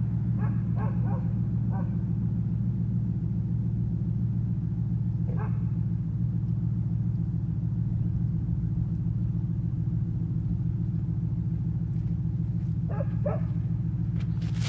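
A 1998 Pontiac Firebird Formula's LS1 V8, fitted with a high-flow MagnaFlow catalytic converter and a glasspack, idling with a steady low rumble. A dog barks in short bursts, several times near the start, once around the middle and twice near the end.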